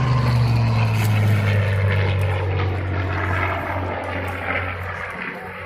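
Bell P-63 Kingcobra's piston engine and propeller flying past the crowd, its engine note dropping in pitch as it passes, then fading as it flies away.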